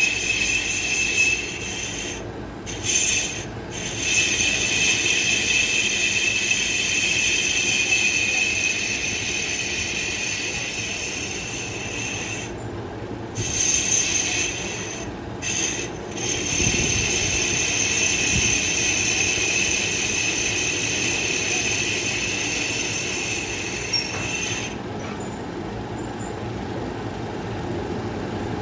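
Cutting tool squealing against the metal of a motorcycle wheel hub's brake drum as it is machined during brake resurfacing: a loud, steady, high-pitched screech over a low machine hum. The screech breaks off briefly a few times and stops near the end.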